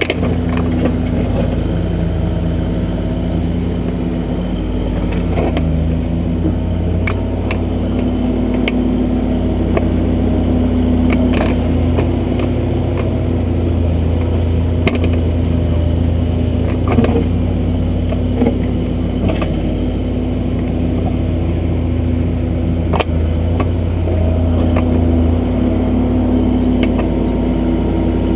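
Kubota backhoe's diesel engine running steadily under digging load, its pitch rising and falling slightly, with scattered sharp clicks and knocks from the working arm.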